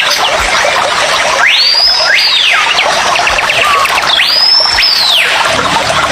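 Dense chorus of chirping birds, with two loud whistled calls, each sweeping up, holding for about half a second, then falling, one about a second and a half in and one about four seconds in.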